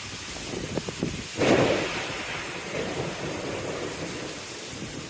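Heavy rain and wind of a sudden storm, a steady rushing hiss, with one louder burst about a second and a half in that fades over about a second.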